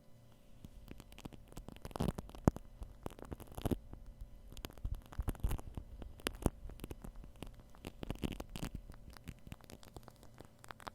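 Shaving cream being worked on a binaural microphone, close-up: dense, irregular crackling and popping, thickest about two seconds in, around the middle and near eight seconds.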